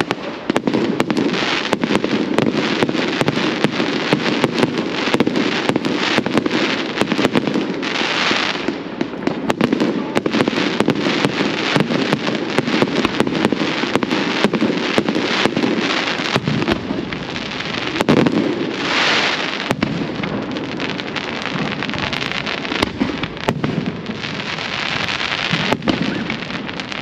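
Fireworks display: a continuous run of bangs and pops, with stretches of dense crackling about eight seconds in, again near nineteen seconds, and near the end.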